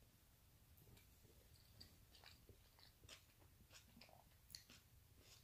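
Faint close-up chewing: soft irregular wet clicks and smacks of a mouth eating, at very low level.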